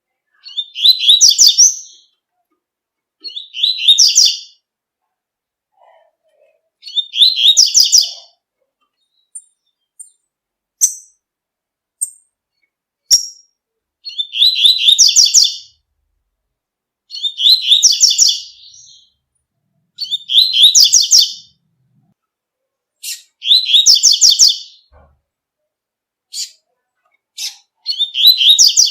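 Double-collared seedeater (coleiro) singing the tui-tui song type: bright, high phrases of about a second and a half, repeated every few seconds, with a few short single chip notes between them.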